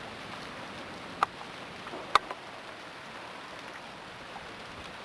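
Ice-laden tree branches cracking and snapping: a few sharp cracks, the loudest about two seconds in, over a steady hiss of freezing rain.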